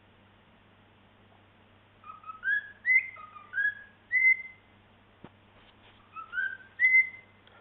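Cockatiel whistling: after a short pause, a run of short rising whistled notes, then a second whistled phrase near the end, with a single faint click between them.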